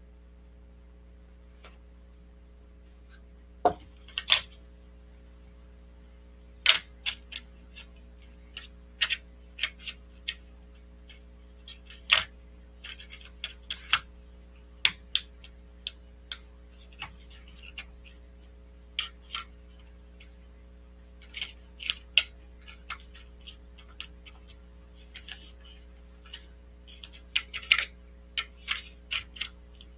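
Irregular sharp clicks and taps, some loud, scattered over a steady low electrical hum.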